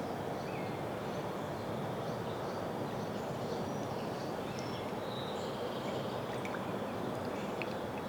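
Steady outdoor background rush, with faint short bird chirps now and then and a few light clicks near the end.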